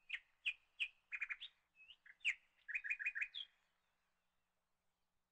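A bird chirping: a run of short, sharp chirps, some coming in quick clusters of three or four, for about three and a half seconds.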